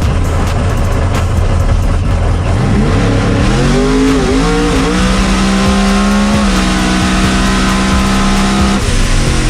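Supercharged drag race car's engine on a pass. A low steady rumble gives way to a climbing engine note from about three seconds in, broken by two brief dips that match the traction-control cuts it hit on this run. It then holds a high steady note, changes about six and a half seconds in, and falls away near the end.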